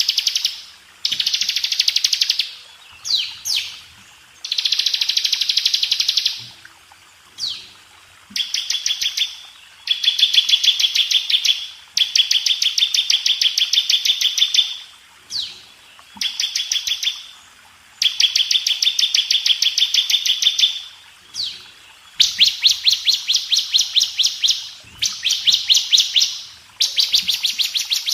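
Bar-winged prinia (ciblek) singing a series of fast, tight high-pitched trills, each lasting one to three seconds with short pauses, with an occasional brief down-slurred note between them.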